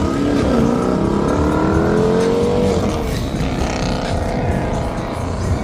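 Car engine accelerating, its pitch rising steadily for about two seconds and then dropping away about three seconds in, over a low rumble of street traffic.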